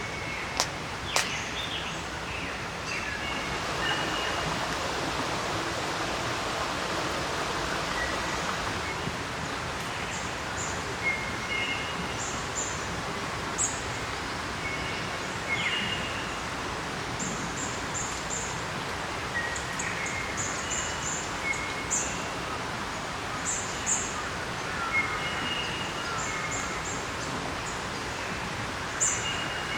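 Birds calling with short, high chirps scattered throughout, over a steady outdoor hiss. There are two sharp clicks about a second in.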